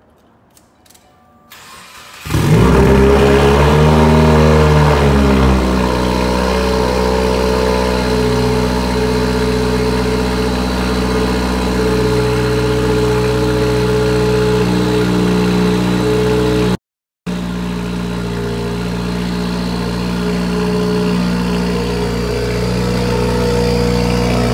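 2015 Subaru WRX STI's turbocharged 2.5-litre flat-four engine starting about two seconds in. Its revs flare up and drop back over the first few seconds, then it settles into a steady idle.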